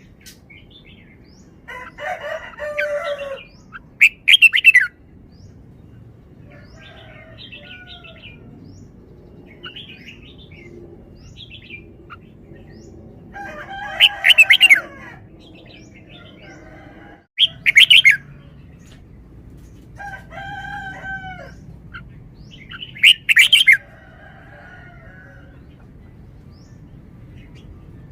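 Red-whiskered bulbul singing short, loud, warbling phrases every few seconds, with softer chirps in between.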